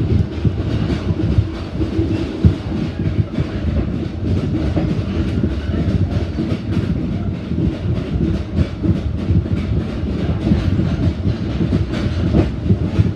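Running noise heard inside a metre-gauge passenger coach of a moving train: a steady low rumble of wheels on rail, with frequent irregular knocks and rattles.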